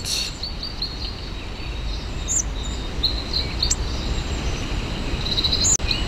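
Small woodland birds giving scattered short, high chirps several times, over a steady low outdoor rumble of wind on the microphone.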